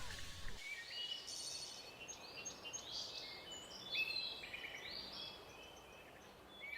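Faint birdsong: many short, high chirps and whistled notes over a light background hiss.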